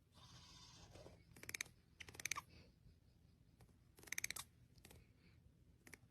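Three short, faint bursts of rapid chirping from a pet bird, about one and a half, two and a half, and four seconds in, with near silence between.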